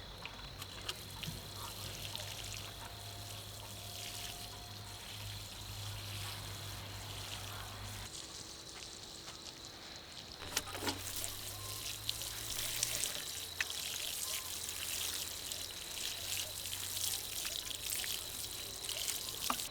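Water pouring and trickling, with scattered small clicks and knocks that grow busier and louder about halfway through.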